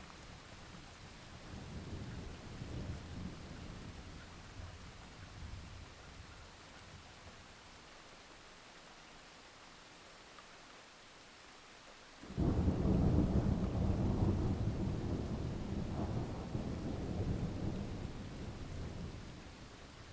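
Steady rain with thunder: a low rumble of thunder in the first few seconds, then about twelve seconds in a sudden loud thunderclap that rolls on for several seconds before fading near the end.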